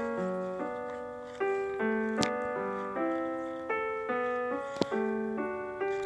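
Background piano music with notes struck and left to ring, the chords changing about every half second. There is a sharp click about two seconds in and another near five seconds.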